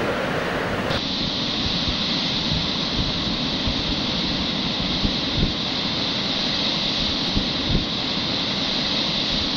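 Steady rush of fast-flowing river water, the whitewater of the Indus River.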